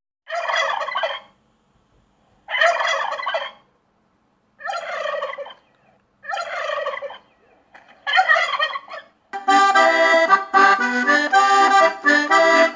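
Turkey gobbling: five gobbles about two seconds apart, each lasting about a second. Accordion music starts about nine seconds in.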